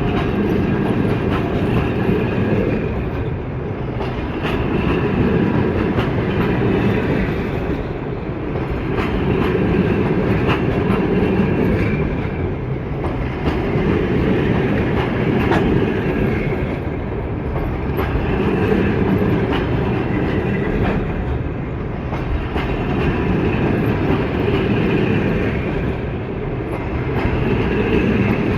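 Passenger train rolling past at low speed, its wheels clicking over rail joints. The rumble swells and fades about every four to five seconds.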